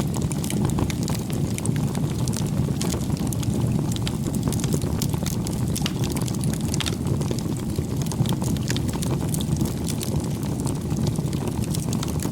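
Campfire burning: wood crackling with many small sharp pops over a steady low rush of the flames.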